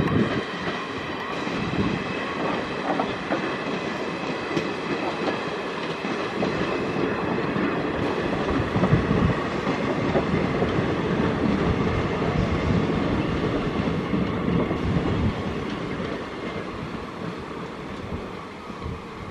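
Indian Railways express passenger coaches rolling past at speed: a dense rumble of wheels on rail with clattering over the joints, and a steady high-pitched whine on top. The sound fades over the last few seconds as the train draws away.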